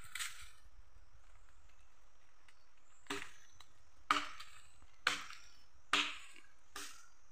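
Wood being chopped by hand, a blade striking wood in single blows. There is one blow right at the start, then after a pause about five blows roughly a second apart.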